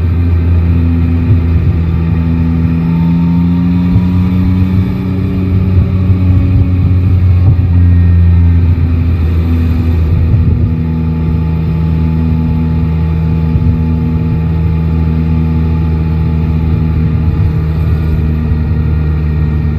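Yamaha Tracer 9 GT's three-cylinder engine running at low speed with small shifts in pitch, then settling to a steady, even note for the second half.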